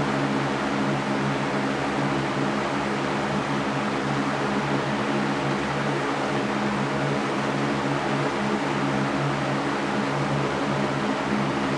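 Electric fan running steadily: a constant rush of air over a low motor hum.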